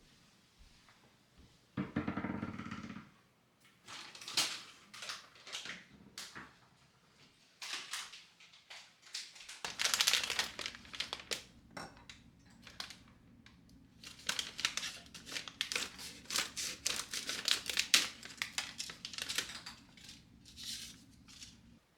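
Kitchen handling sounds: a short tone about two seconds in, then crinkling, crushing and quick clicks. A steady low hum from a running appliance starts about ten seconds in and goes on under them.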